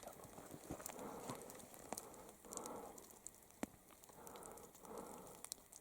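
Faint rustling with scattered small crackling clicks, coming and going in short soft patches, from people moving quietly close to the microphone during a stalk.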